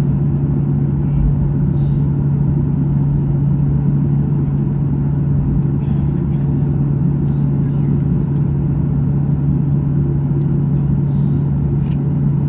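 Steady cabin noise inside a Boeing 737-800 airliner: a constant low hum over a dense rumble, unchanging throughout.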